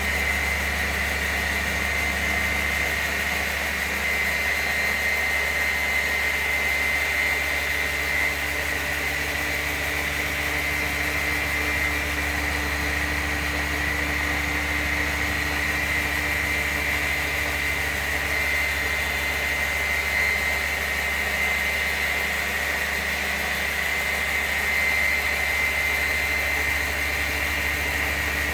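Hand-held polisher with a diamond grit pad running steadily on a marble top during wet polishing, with a constant motor hum and a steady high whine.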